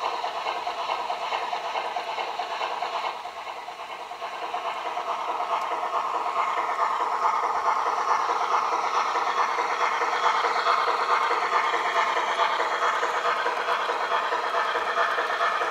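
Garden-scale model train running on its track, a steady rattle of wheels over rail with no low rumble, fading a little a few seconds in and then growing louder as it comes closer.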